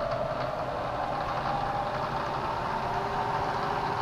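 Bridgeport EZ-TRAK DX II CNC vertical mill running through its program: a steady machine hum with a faint whine that comes in about a second and a half in.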